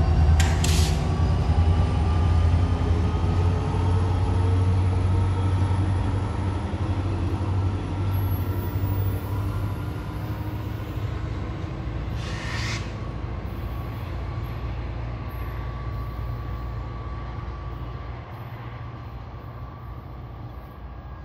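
An NJ Transit PL42AC diesel locomotive and its passenger train pulling away: a low engine rumble and rolling noise that fade steadily, with engine tones sliding slowly down in pitch. Two short high-pitched hisses, one just after the start and one about twelve seconds in.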